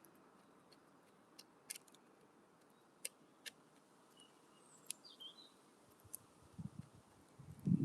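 Wood pigeon feeding at a window bird feeder: a handful of sharp, scattered taps as it pecks at the seed, with a few faint bird chirps in the background. Near the end comes a run of low, dull bumps, the loudest sound.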